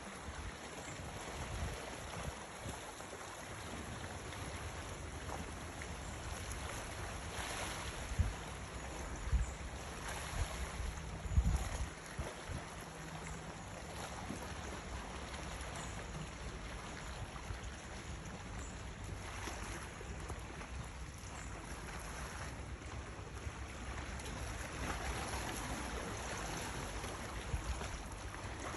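Sea water washing in, swelling and fading every few seconds, with wind rumbling on the microphone.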